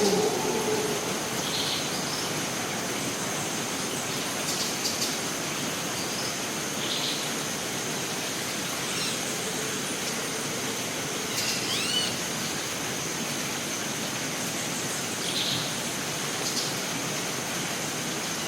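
Rainforest ambience: a steady hiss of water under a constant high-pitched drone, with a few short bird chirps and one rising-and-falling bird whistle about two-thirds of the way through. A lower droning tone fades out in the first second.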